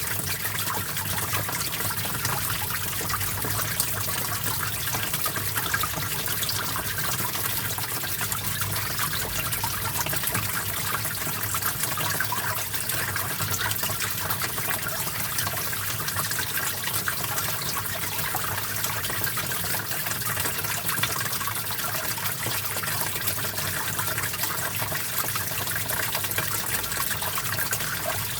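Small stream of water trickling and splashing steadily, a dense even rush of water noise with no break.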